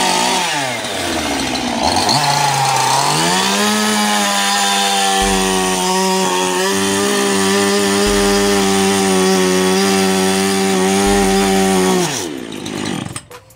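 Gas chainsaw engine dropping off throttle, then revving back up and held at a steady high speed for about nine seconds before winding down near the end.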